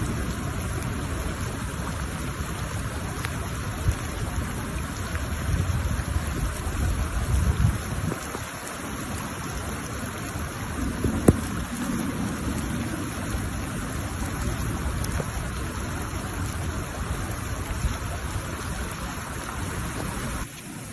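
A wadi running in flood, a steady rushing wash of water, with wind buffeting the microphone in low rumbles that ease off for a while about eight seconds in.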